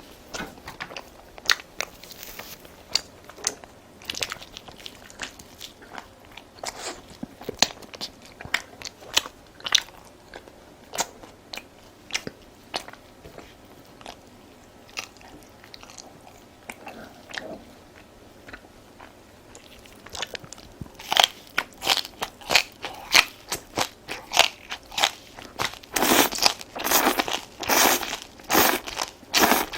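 Close-miked crunchy food being bitten and chewed: a run of sharp wet crunches and crackles, sparse at first, then coming thick and loud over the last several seconds.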